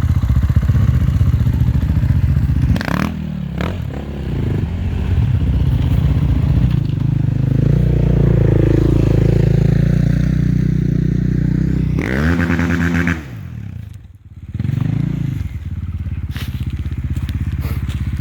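Enduro motorcycle engine running close by with the throttle worked unevenly. It revs up and falls back sharply about two-thirds of the way through, drops away briefly, then revs once more, with a few knocks and clatters early on.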